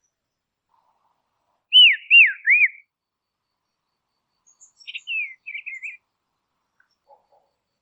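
Songbird calling: three loud, clear whistled notes in quick succession about two seconds in, each swooping down and back up, then a softer run of short twittering notes a few seconds later.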